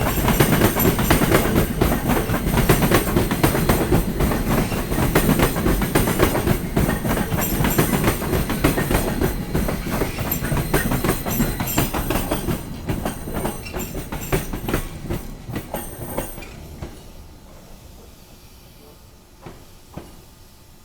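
Electric commuter train passing over rail joints, its wheels clattering in rapid, loud clicks over a rumble. The clatter fades away after about two-thirds of the way through, and a couple of faint clicks are left near the end.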